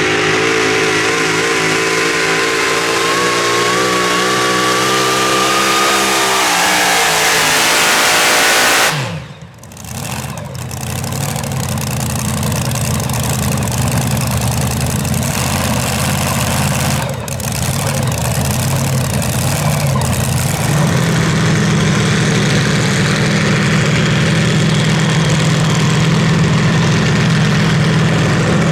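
Super modified four-wheel-drive pulling truck's engine at full throttle under load, its pitch slowly climbing, then the throttle is cut abruptly about nine seconds in. The engine comes back running lower and settles into a steady low idle for the last third.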